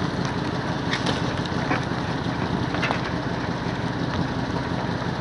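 A vehicle's engine running steadily while driving, with wind noise on the microphone and a few light rattles.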